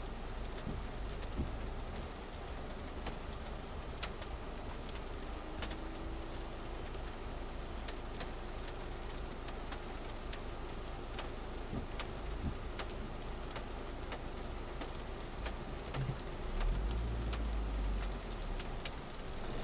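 Rain hitting a car's windshield and roof, heard from inside the cabin: single drops tick sharply and irregularly over a steady patter and a low cabin rumble. A deeper rumble swells briefly near the end.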